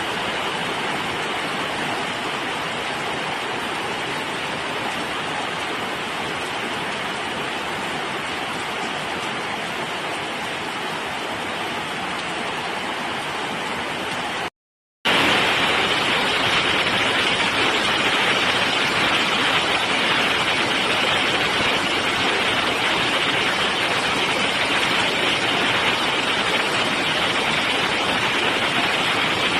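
Heavy rain pouring down in a steady, even hiss. About halfway there is a split-second gap, and then it comes back louder and brighter.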